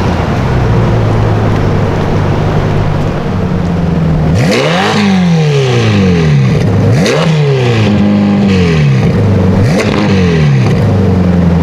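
A car engine idling, then revved three times: each rev shoots up sharply and falls back over about a second and a half.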